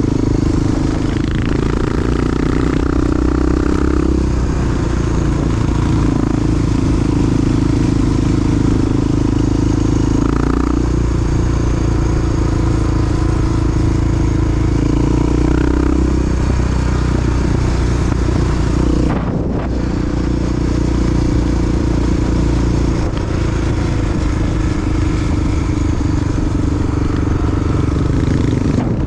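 Big single-cylinder four-stroke Honda XR dual sport motorcycle engine running under way. The engine note steps up and down several times as the throttle and gears change, with a short dip about 19 seconds in.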